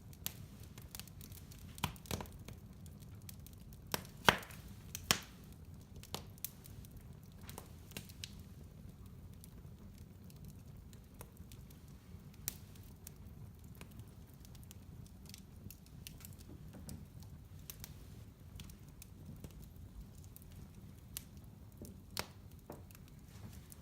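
Wood fire crackling in a fireplace: irregular pops and snaps, two louder ones about four and five seconds in, over a low steady rumble.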